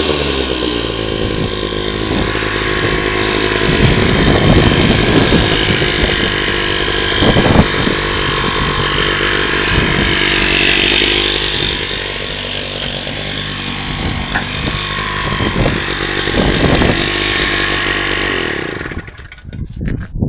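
Sachs Stamo 98 two-stroke engine on an Agria motor hoe running, its speed rising and falling, then dying away near the end as it stops.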